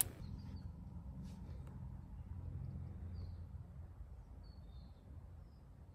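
Forest ambience: a few small birds giving short, faint high chirps now and then over a low, steady rumble.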